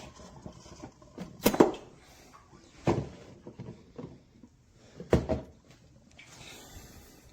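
Three separate sharp clunks, a second and a half to two seconds apart: objects being handled and set down against hard surfaces.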